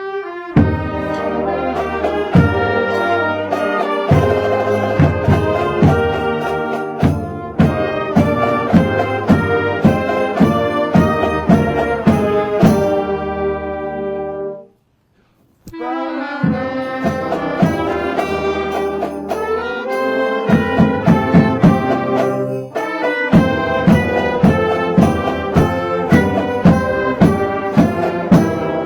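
High school marching band playing a holiday tune: brass carrying the melody over a steady drum beat. The music breaks off for about a second midway, then starts again.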